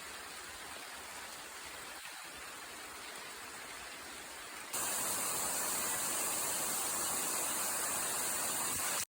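Steady rain falling in a forest, an even hiss. About halfway through it jumps to a louder, brighter hiss of rain, then cuts off abruptly at the end.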